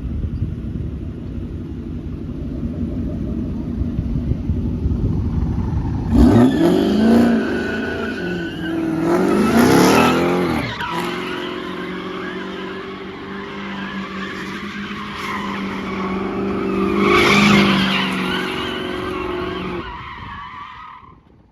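A car being driven hard in a slide: the engine revs up and down with tyres squealing, with loud surges about ten and seventeen seconds in, then it dies away near the end.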